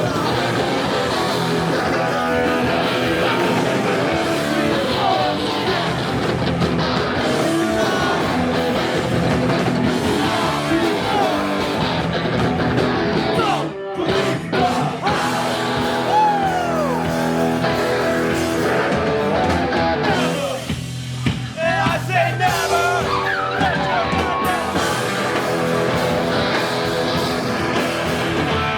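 Loud live punk rock band playing: distorted electric guitars and drums with yelled vocals, the full band breaking off briefly about halfway through and again a few seconds later.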